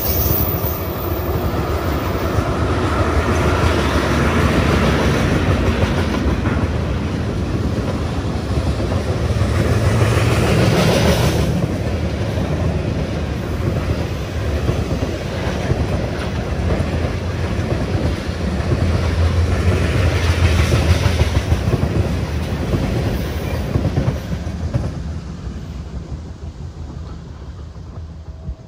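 Freight train of ethanol tank cars rolling past, wheels clicking over the rail joints with a steady rumble that swells and eases, then fades away near the end as the train draws off.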